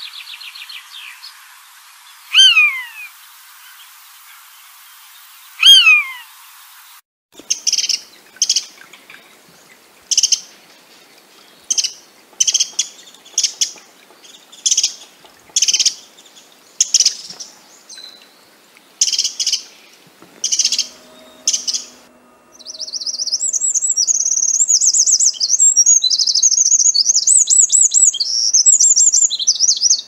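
Songbirds calling. First come two loud calls that slide downward, then a run of short, sharp high calls repeated about once a second, then a continuous fast twittering song over the last eight seconds.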